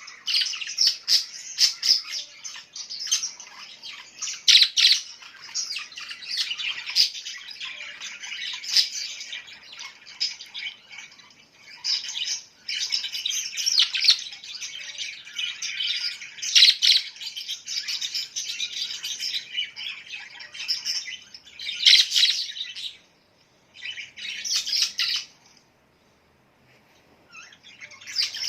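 Small birds chirping and squawking in a dense, fast chatter, breaking off briefly a little after two-thirds of the way through and again for a few seconds near the end.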